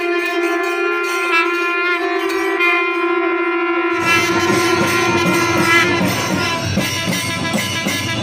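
Live festival music: a wind instrument holds one steady note, and about four seconds in drums come in with a dense, rhythmic beat while the note fades out.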